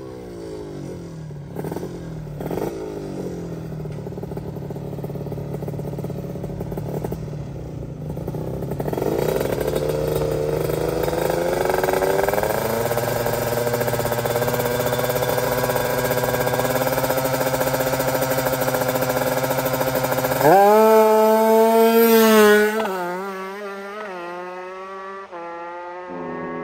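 Drag-racing underbone motorcycle engine revved at the start line: uneven blips at first, then the revs climb and are held at a steady high pitch. About twenty seconds in it launches, much louder for a couple of seconds with a wavering pitch, then drops away and trails off as the bike pulls down the strip.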